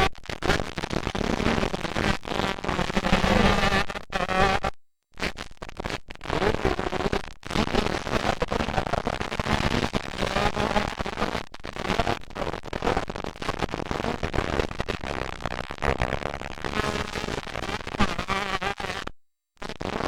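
Motocross bikes' engines revving with a wavering pitch under loud crackling noise. The sound cuts out completely twice.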